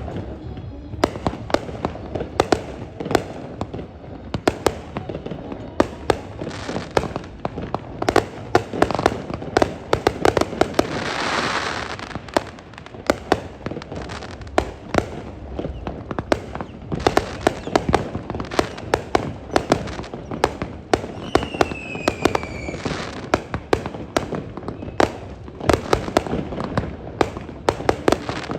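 Fireworks barrage: a dense, unbroken run of sharp bangs and crackles from bursting shells. A hissing rush comes about eleven seconds in, and a falling whistle a little after twenty seconds.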